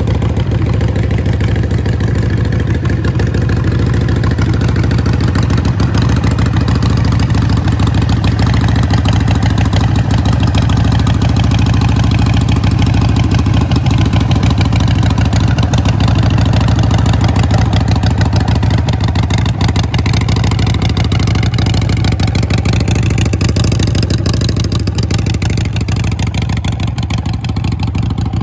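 Harley-Davidson Sportster 883's fuel-injected V-twin running steadily through Vance & Hines Short Shot exhaust pipes, with a dense, rapid pulsing exhaust note.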